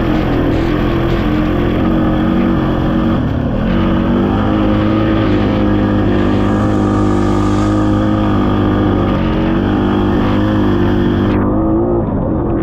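Honda Rubicon ATV's single-cylinder engine running while riding a trail, its pitch stepping up and down several times as the throttle and speed change.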